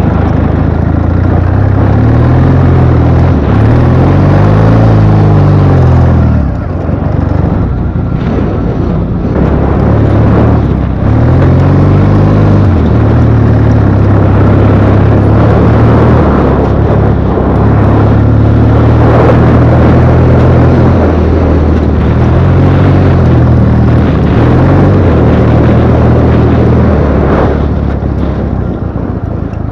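Ural motorcycle's IMZ-8.103.10 air-cooled flat-twin engine running under load, its revs repeatedly rising and falling as the throttle is worked. The engine note is loud and eases off a little near the end.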